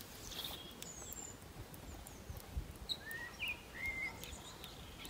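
A few birds calling: short rising chirps, most of them about three to four seconds in, over a faint low rumble.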